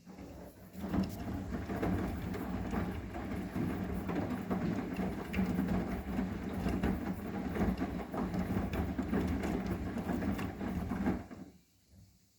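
Arçelik 9120M front-loading washing machine's drum turning during the wash on a synthetic 30°C programme, a steady motor hum with laundry and water sloshing inside. It starts about a second in, runs for about ten seconds and stops suddenly, the usual turn-and-pause rhythm of a wash cycle.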